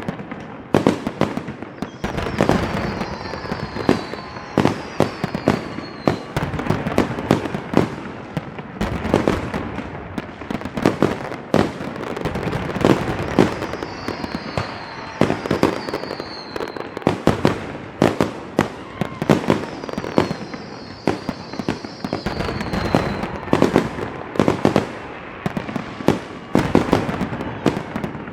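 Fireworks going off: a dense, irregular series of sharp bangs, with a few high whistling tones that fall in pitch, heard in pairs three times.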